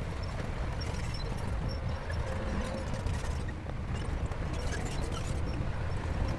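SHANTUI crawler bulldozer's diesel engine running steadily with a deep, even drone, with scattered light ticks and clanks over it.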